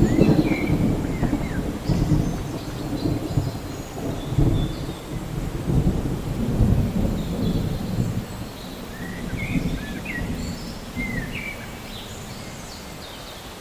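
Rain falling steadily while thunder rolls in deep, uneven rumbles that are heaviest at the start and die away toward the end. A few short high chirps sound near the start and again in the last third.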